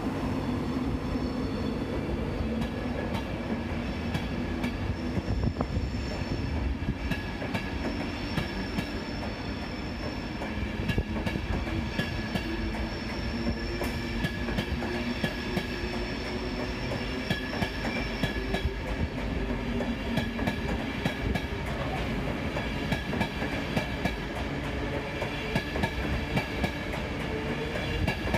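LNER InterCity 225 Mark 4 passenger coaches rolling slowly along a platform road. A steady rumble is broken by many irregular sharp clicks from the wheels, with thin high wheel squeal over the top.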